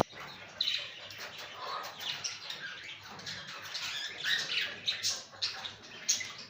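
Budgerigars chirping and chattering, a busy run of short, high chirps.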